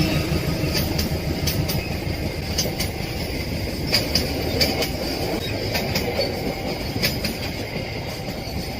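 Train wagons rolling past, with a steady rumble of wheels on rail and irregular sharp clicks as the wheels cross rail joints, easing off slightly near the end.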